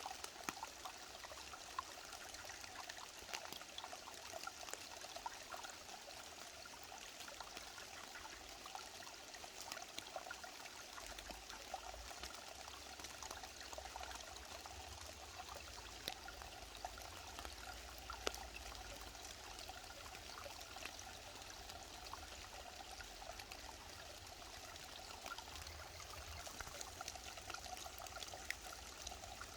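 Mountain valley stream flowing, a steady rush of water with faint trickling and small splashes.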